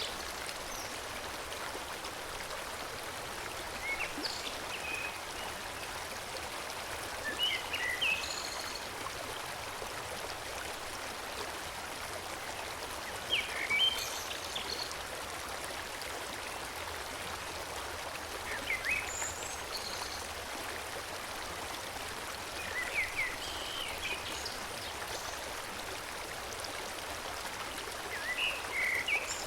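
Forest stream flowing steadily, with short phrases of birdsong every few seconds.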